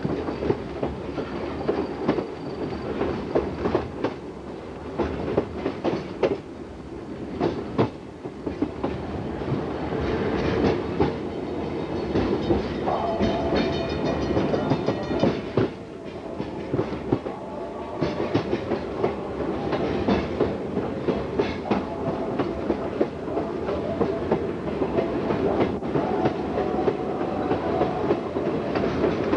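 Train wheels rolling over jointed track, with a steady rumble and repeated clicking as the wheels cross rail joints. Around the middle a steady horn-like tone sounds for about three seconds.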